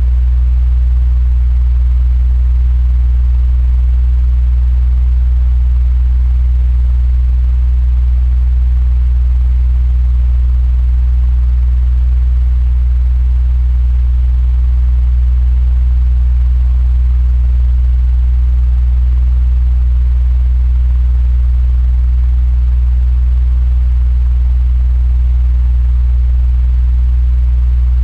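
Electric fan running steadily: a constant low hum with a faint airy hiss above it.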